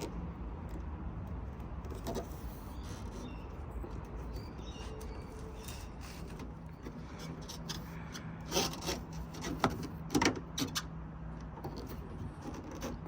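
Scattered clicks and knocks, with a cluster of sharper ones about two-thirds of the way through, over a steady low hum: handling noise from working on a car door's trim and weatherstrip.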